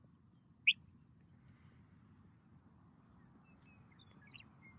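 Faint steady open-air background noise, with one short, sharp bird chirp about a second in and a few faint chirps near the end.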